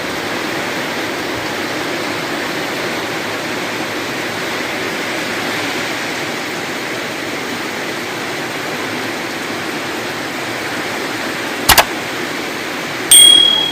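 Steady hiss of rain falling in the wind. About twelve seconds in there are two quick clicks, and near the end a loud sudden sound leaves a short high-pitched tone.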